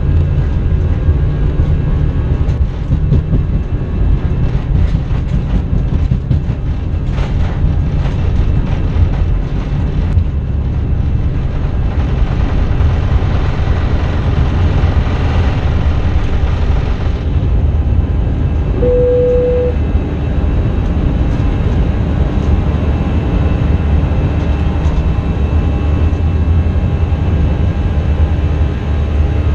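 Airbus A321 cabin noise while the aircraft rolls on the ground: a loud, steady, heavy rumble with rattling. A single short tone sounds about two-thirds of the way through.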